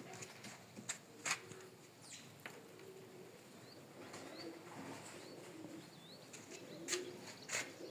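Domestic pigeons cooing low and repeatedly, with a few sharp wing flaps, twice near the start and twice near the end. Faint short rising chirps are heard in between.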